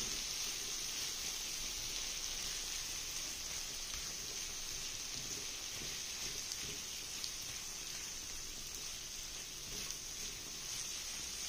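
Mutton frying in butter and oil on a tawa, a steady sizzle.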